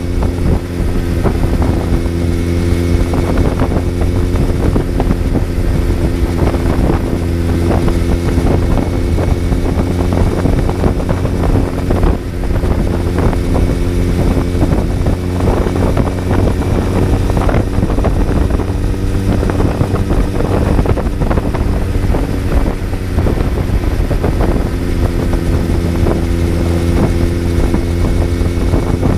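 Kawasaki Z900's inline-four engine heard on board while riding, running at a steady speed with the revs held nearly constant and no gear changes.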